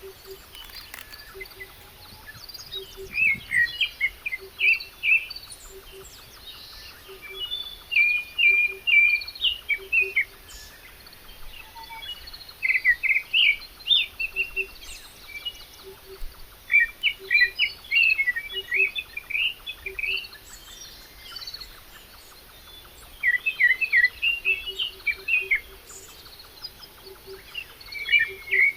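A songbird singing in bursts of quick chirping phrases, a new phrase every few seconds. Underneath, a faint low note repeats about once a second.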